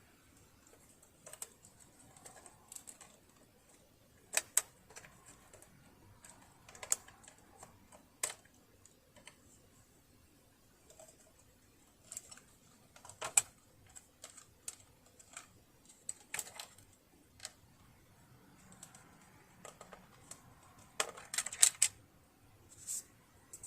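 Irregular small clicks and taps of tools and metal parts being handled while a sewing machine is partly dismantled, with a quick cluster of clicks near the end.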